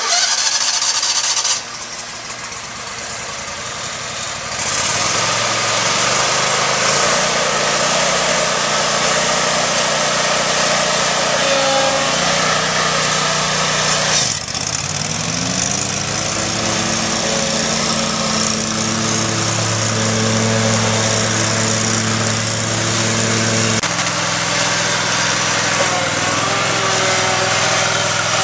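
A mower engine running. Its steady note comes in about four seconds in. About halfway through its speed dips and climbs back up, and its pitch shifts again near the end.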